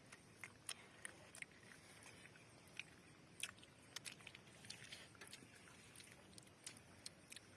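Faint, irregular small clicks and crunches of fresh lotus seeds being shelled and chewed.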